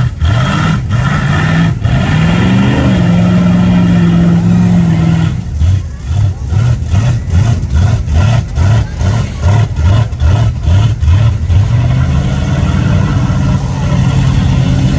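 Big mud truck's engine running, climbing in pitch about two seconds in and holding there, then revving up and down in quick pulses, about two a second, for several seconds before settling back to a steady run.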